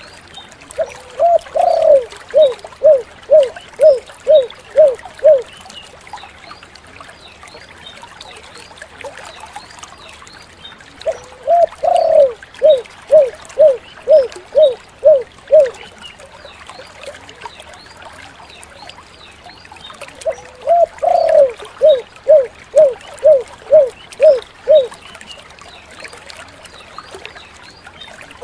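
Spotted dove (tekukur) cooing: three call phrases, each a longer opening coo followed by a quick even run of about eight short coos. The phrases come roughly every nine or ten seconds.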